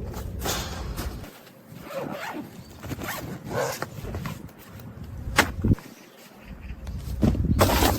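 Handling noises: short rustles and scrapes with a few sharp clicks, one louder click about five and a half seconds in, over a low rumble that cuts out twice.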